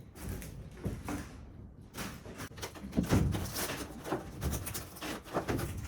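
Irregular knocks, scrapes and rattles of a caravan's non-metal interior wall sheet being worked at by hand, louder from about three seconds in.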